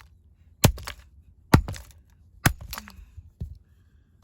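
An axe striking and smashing a cheap toy RC helicopter: four sharp cracking hits about a second apart, the last two lighter.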